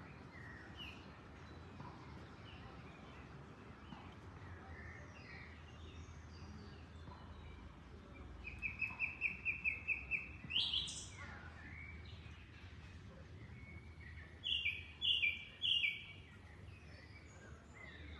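Songbirds chirping and singing over a steady background of flowing water. About halfway through, one bird gives a fast run of about nine repeated notes ending in a rising note; near the end come three loud short notes, with softer chirps scattered between.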